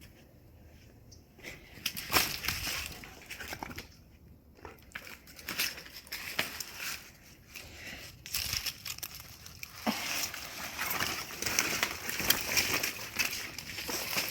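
Husky chewing and tearing a dry, broken bird of paradise leaf: irregular crunching, crackling and rustling. It starts about two seconds in and grows busier and louder after about ten seconds.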